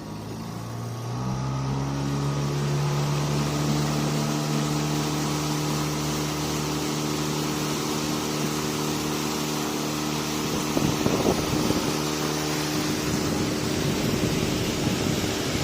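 Boat engine speeding up over the first couple of seconds, then running at a steady pitch, with a steady hiss over it.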